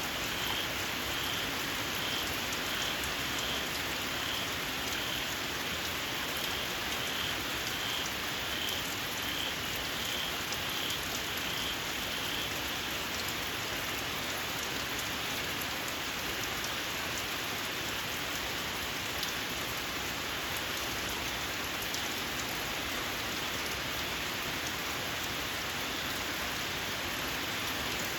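Steady rain falling, with a small frog giving short, shrill, evenly repeated calls, a little over one a second, that stop about twelve seconds in.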